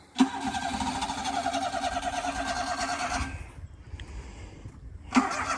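Small mini-truck engine running steadily under load with a fast, even pulse. It drops away about three seconds in and comes back near the end.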